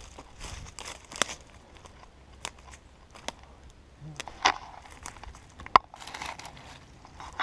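Rustling and crackling of dry brush and leaf litter, with sharp twig snaps scattered at irregular moments, as someone pushes through undergrowth on foot.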